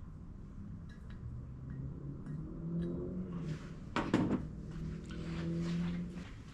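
Tools and small parts handled on a workbench: light clicks and one sharp clack about four seconds in, with a low steady hum in two stretches.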